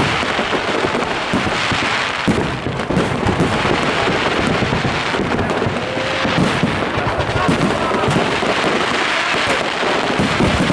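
Fireworks display: a dense, continuous run of bangs and crackling.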